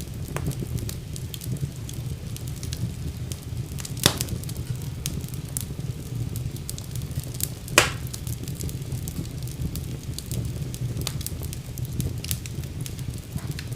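Wood fire burning in a fireplace: a steady low rumble of flames with frequent small crackles, and two louder pops about four and eight seconds in.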